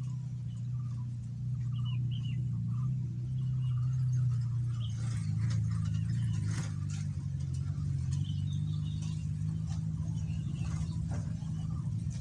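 Short, faint sooty-headed bulbul chirps scattered through, over a steady low hum that is louder than the birds.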